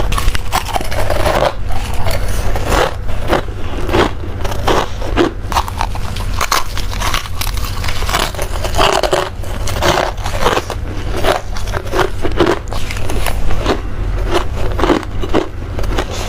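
Freezer frost being bitten and chewed close to the microphone: a rapid run of crisp crunches, several a second, over a steady low hum.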